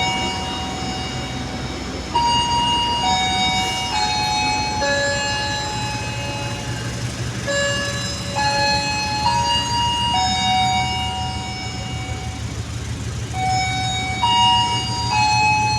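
A slow melody of long, clean electronic notes, each held for about a second before stepping to the next pitch. It plays over the steady low rumble of an idling train.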